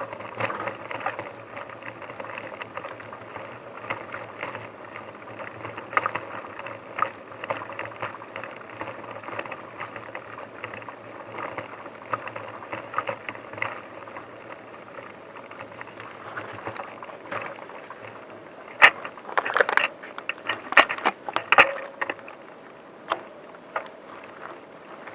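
A bicycle being ridden over a rough forest track: a steady rolling hum with continual light rattling and clicking, then a run of louder sharp cracks and knocks about three-quarters of the way through.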